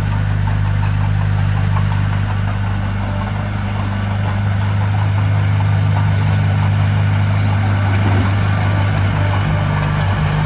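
Diesel engine of a heavy earth-moving machine running steadily, with light clicking over it. The engine note shifts slightly near the end.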